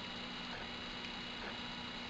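Prusa i3-style 3D printer running a print: its stepper motors give a steady whine and hum that briefly break or shift pitch every half second or so as the moves change, with light ticks.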